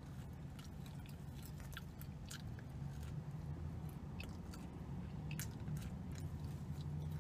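Biting into and chewing a giant crisp sesame seed cookie: a run of scattered short, crisp crunches and crackles as the bite is chewed, over a low steady hum.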